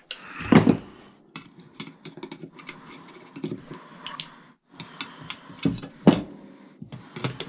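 Hand tools knocking and scraping on metal scrap parts, a run of short clicks and clatter with two louder knocks, about half a second in and near six seconds.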